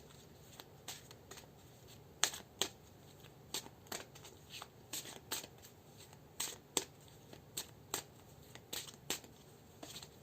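A deck of tarot cards being shuffled by hand: a string of short, sharp card slaps and flicks, two or three a second, at irregular spacing.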